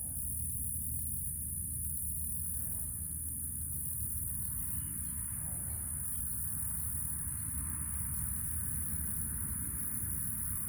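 Crickets chirping: a steady high-pitched trill with faint regular chirps about three a second, over a low steady rumble.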